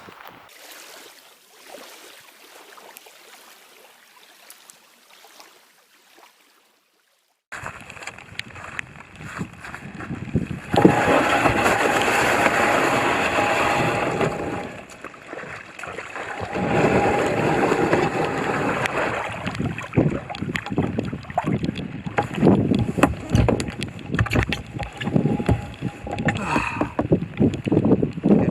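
Kayak out on a lake with wind buffeting the microphone and water splashing around the hull and paddle; this starts abruptly after a short gap and is loud and gusty. A steady tone sits under it through most of the middle.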